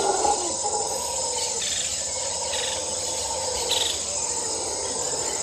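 Insects, crickets or cicadas, calling in a steady high-pitched chorus, with a few short chirps and a steady lower hum underneath.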